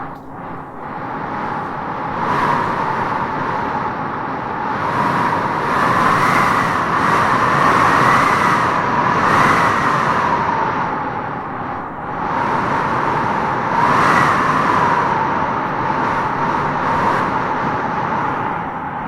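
Wind howling and gusting through trees: a steady rush with a wavering whistle that rises and falls, swelling about two seconds in, again for several seconds in the middle, and once more near the end.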